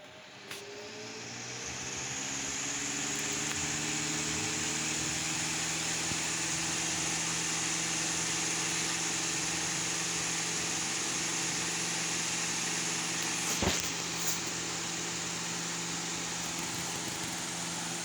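2020 Hunter table fan switched on at high: the motor hum rises in pitch as it spins up over the first few seconds, then runs steadily with a rush of air. Its blades are off balance, so the fan shakes quite a bit. A single short knock comes about three quarters of the way through.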